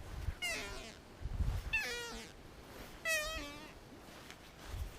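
An animal calling four times in short, wavering, high-pitched cries, each under a second and spaced a little over a second apart.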